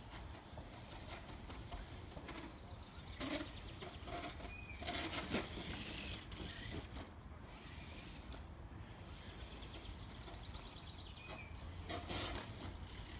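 Outdoor background: a low steady rumble, a few short high bird chirps, and occasional brief clatters about three, five and twelve seconds in.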